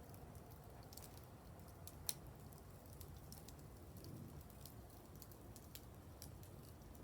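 Wood campfire crackling softly: scattered small irregular pops and ticks, with one sharper pop about two seconds in.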